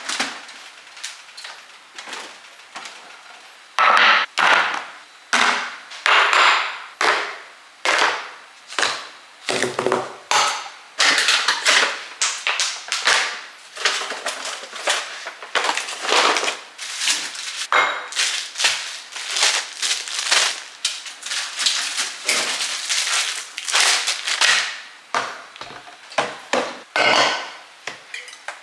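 A refrigerator being emptied and cleaned: food containers, jars and shelves being lifted out and set down, with irregular clatters, knocks and rustling of plastic and glass.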